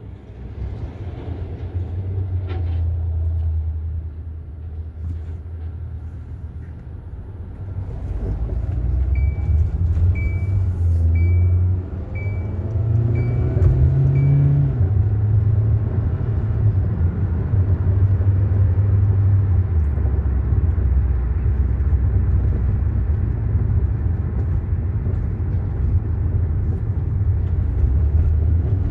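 Kia Soul heard from inside during a test drive: steady engine and road rumble that picks up as the car accelerates from about a third of the way in, with no brake grinding. Midway, a run of six short high beeps sounds about once a second.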